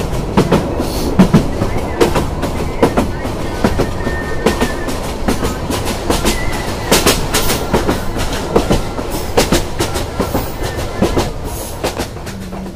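Passenger train running at speed, heard from inside a carriage: a steady rumble with a dense, irregular stream of sharp clacks from the wheels on the track.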